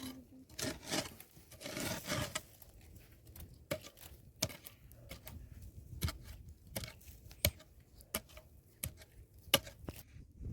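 Irregular sharp knocks and cracks of wood being worked by hand, about a dozen spread unevenly, with rustling and scraping in the first couple of seconds.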